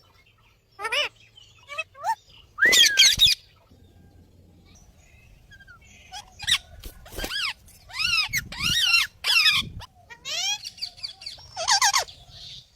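Parrots squawking: harsh, high calls that bend up and down in pitch, a loud burst about three seconds in, then a run of repeated screeches from about six seconds in until near the end.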